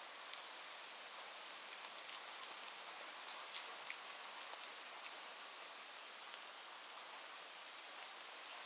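Steady rain falling, a soft even hiss with scattered individual drops ticking.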